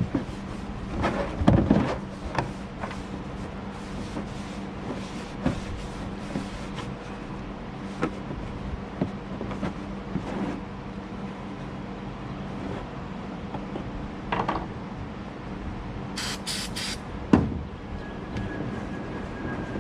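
Handling noise of a plastic oil drain pan being wiped out with paper towels: scattered knocks and scrapes, three short sharp hissy sounds about sixteen seconds in, and a single loud knock just after, over a steady background hum.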